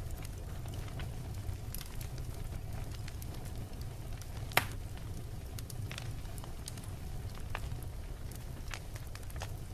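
Wood bonfire crackling, with frequent small pops and one sharp, much louder pop about halfway through, over a steady low rumble.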